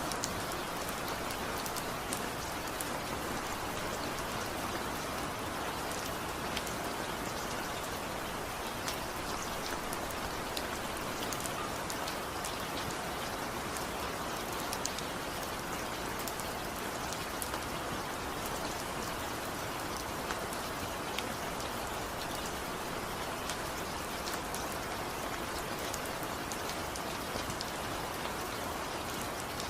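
Steady rain, a constant even hiss with many small drops pattering and ticking on a surface, without thunder.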